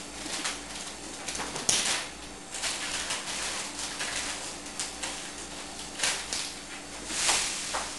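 Kitchen cupboards and cookware being handled: a series of knocks, clanks and short sliding scrapes, the loudest about two seconds in and again near the end.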